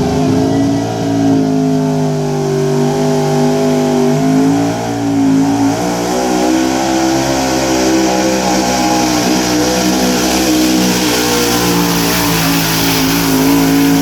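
Pulling truck's engine running at high revs under full load down the track, its pitch wavering up and down but held high the whole time.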